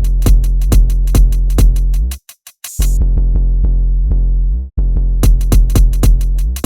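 Electronic beat built in Maschine 2 from a loop sample shifted in tempo and key: a fast hi-hat pattern and kicks over a held bass. About two seconds in it cuts out briefly, then the bass returns without the hi-hats, and the full drums come back about five seconds in.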